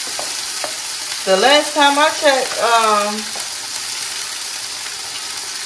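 Food sizzling steadily in a hot frying pan. A person's voice is heard briefly, about a second in.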